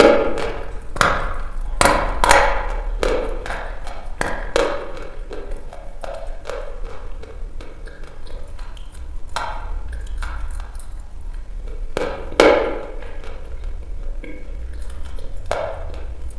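Dry red chalk being bitten and chewed: sharp, dry crunches, several close together in the first few seconds and then a few more spaced seconds apart, over a steady low hum.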